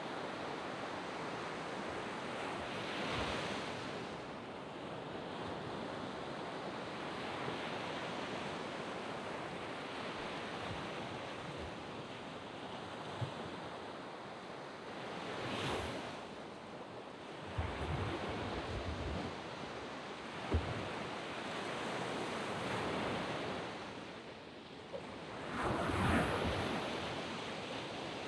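Waves washing onto a sandy beach in a steady rush of surf, with three bigger waves breaking about 3, 16 and 26 seconds in. A few low thumps of wind on the microphone come midway.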